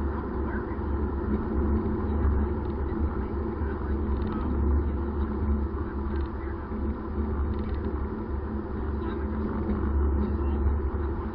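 Steady low drone of a car being driven, engine and road rumble heard at a constant pace without revving.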